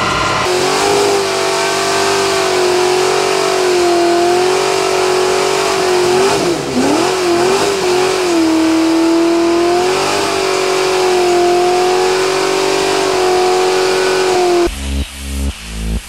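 Car engine held at high revs during a burnout, its pitch wavering and dipping briefly midway, over a steady hiss of tyre noise. Near the end it cuts off abruptly and electronic music with a heavy pulsing beat takes over.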